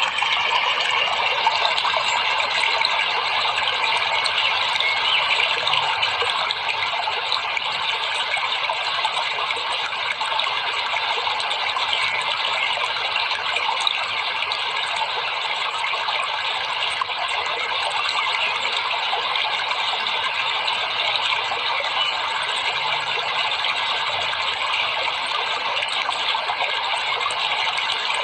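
Steady rushing water, an even unbroken flow.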